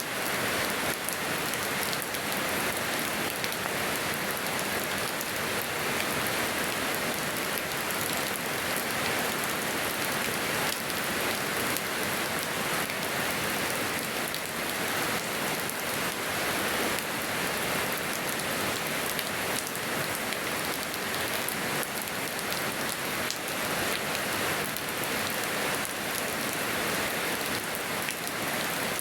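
Steady rain falling on surfaces in a yard, a dense even hiss of many drops pattering.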